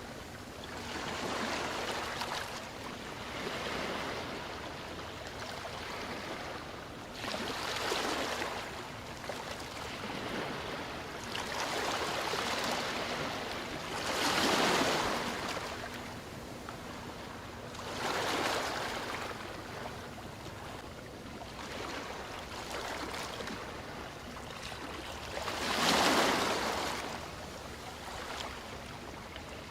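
Ocean waves breaking and washing ashore: a rush of surf that swells and fades every few seconds, the strongest waves coming about a quarter of the way in, halfway, and near the end.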